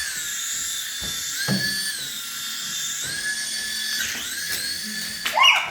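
A toy remote-control helicopter's small electric motor and rotor whining. The pitch dips and then rises back several times as the throttle changes. Near the end there is a brief, louder, irregular sound.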